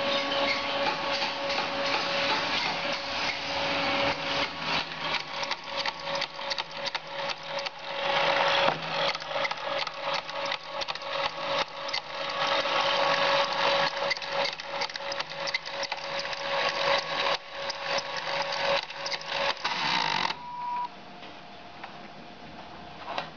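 A SteppIR antenna's element housing unit motor running and feeding out its tape element, with a steady whine and a rapid clicking rattle. The owner finds the noise strange and does not like it. The motor stops near the end.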